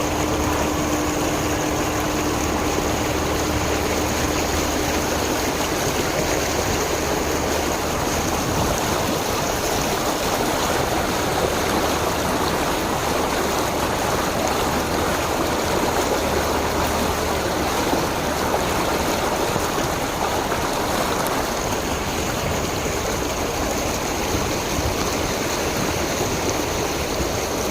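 Heavy rain pouring, with water running on the road: a steady rushing hiss.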